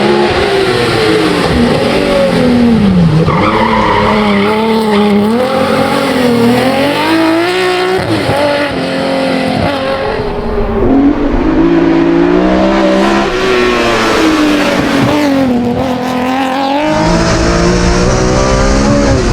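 BMW 135 hill climb race car's engine revving hard, its pitch rising and falling again and again through the gears and corners. Its tyres squeal around four seconds in.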